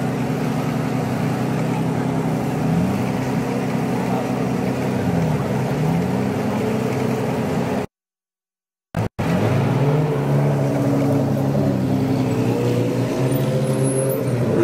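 Drift cars' engines revving hard, their pitch rising and falling again and again as the drivers work the throttle through a tandem drift. About eight seconds in, the sound cuts out completely for about a second, then resumes.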